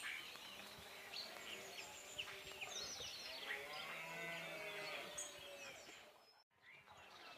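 Small birds chirping and twittering over a faint outdoor background, with a longer rising-and-falling pitched call about halfway through. The sound cuts out briefly near the end.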